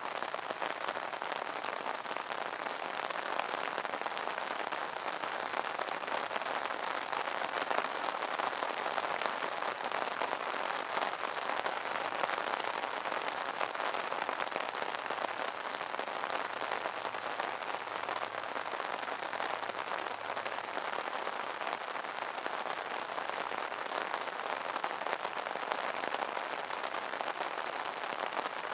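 Steady rain pattering on an umbrella, a dense even patter of countless drops with no let-up.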